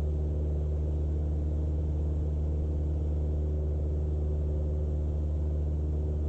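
Cessna 172's piston engine and propeller droning steadily at cruise power, a low even hum in the cockpit audio.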